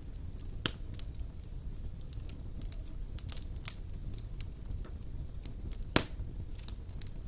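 Wood fire burning in a fireplace: a low steady rumble of flames with scattered crackles and small pops, and one sharp loud pop about six seconds in.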